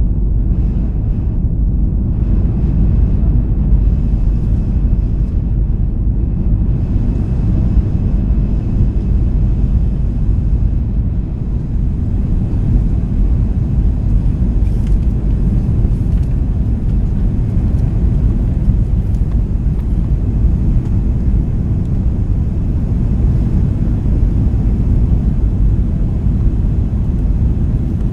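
Airbus A330 jet engines and airflow heard from inside the cabin as a loud, steady deep rumble.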